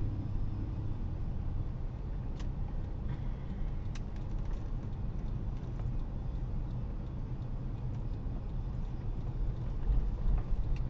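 A car driving, with steady engine and road rumble and two faint clicks a couple of seconds in.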